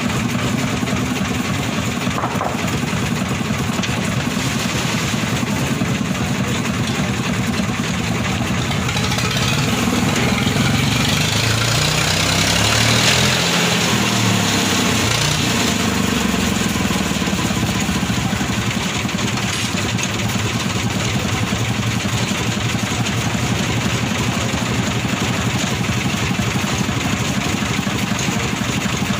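An engine running steadily, its pitch rising and falling and its sound swelling for a few seconds about halfway through.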